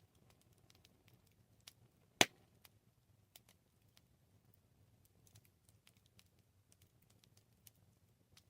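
Campfire crackling: scattered small snaps from burning wood, with one loud pop about two seconds in.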